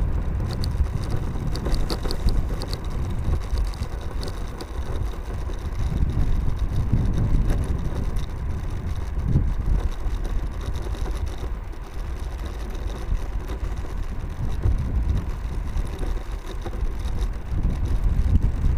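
Wind rushing over the microphone and tyre rumble from a Mercane electric scooter being ridden, swelling and easing unevenly.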